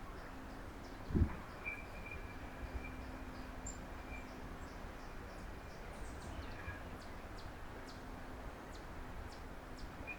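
Outdoor backyard ambience with faint, scattered high bird chirps over a steady low hum, and one dull low thump about a second in.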